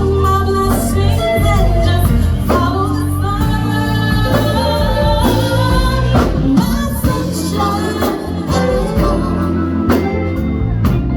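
Live band playing a slow soul song, with drums and bass under a woman singing.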